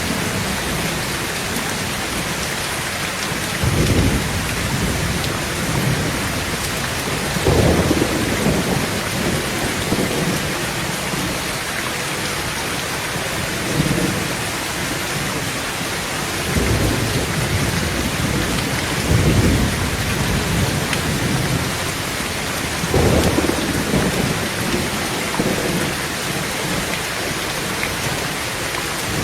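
Heavy rain pounding steadily on a tin roof, with about six short low rumbles of thunder rolling through at intervals of a few seconds.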